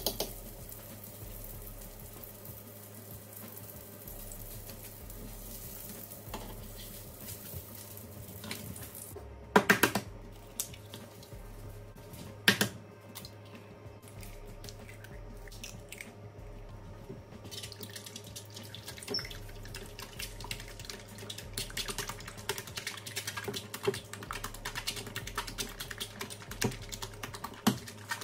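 Food frying in oil in a pan, sizzling and crackling, the crackle growing denser over the second half. A few sharp clanks of a utensil or pan are heard around the middle.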